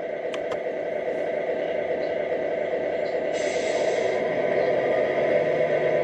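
Simulated diesel truck engine running from the sound unit of a Tamiya Freightliner Cascadia RC truck, played through its small speaker and getting slightly louder. A short hiss comes in a little over three seconds in and lasts under a second.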